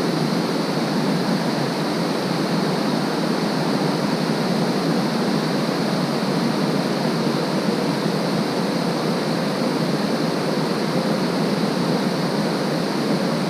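Shallow creek water running steadily over rocks, a continuous rushing noise.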